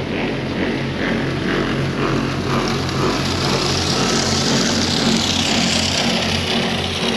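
A vehicle's engine running while driving, with a regular low pulsing about twice a second. The hiss of road or wind noise swells about four seconds in.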